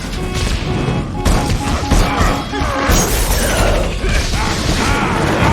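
Action-film sound mix: dramatic score music under repeated booms, crashes and heavy impacts.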